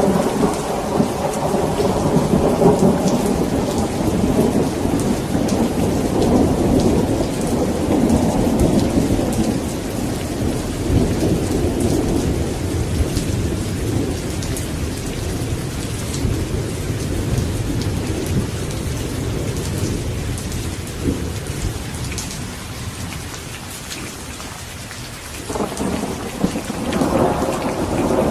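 Steady rain with rolling thunder. The rumble slowly dies away about three-quarters of the way through, and a fresh peal of thunder breaks in sharply near the end.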